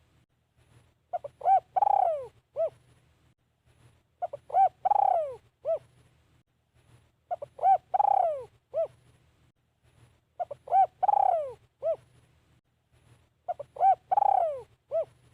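Decoy spotted dove cooing. It repeats one phrase about every three seconds, five times: two short coos, a long falling coo and a short closing note.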